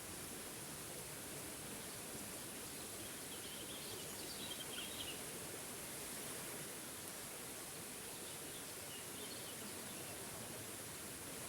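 Waterfall's water rushing steadily, with faint bird chirps twice: about a third of the way in and again near the end.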